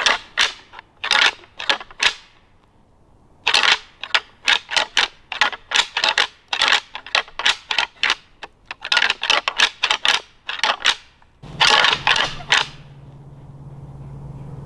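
A pair of deer rattling antlers being clashed and ground together in quick runs of sharp clacks, with a short pause after the first run, imitating two whitetail bucks sparring to call in deer. The clacking stops a couple of seconds before the end, when a low steady hum comes in.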